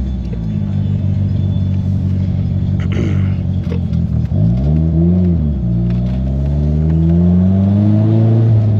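Manual-gearbox car engine heard from inside the cabin as the car pulls away: it runs low and fairly steady, its pitch rises and falls back about four seconds in at a gear change, then climbs steadily as it accelerates in the next gear.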